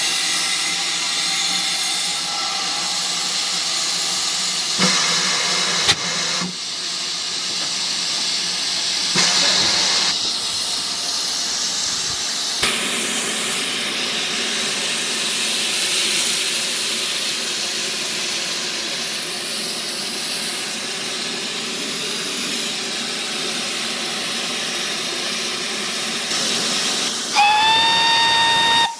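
Steam locomotive hissing steadily with escaping steam, with a few short knocks. Near the end comes one short blast of its steam whistle that rises quickly in pitch and then holds.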